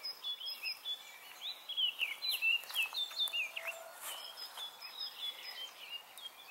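Songbirds singing: many short, quick chirps and whistles that slide in pitch, overlapping, over a faint outdoor hiss.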